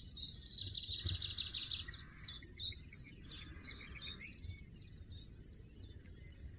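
European goldfinch twittering: a fast run of high chirps for about two seconds, then spaced single notes that thin out and fade. Two brief soft hisses come in under the calls.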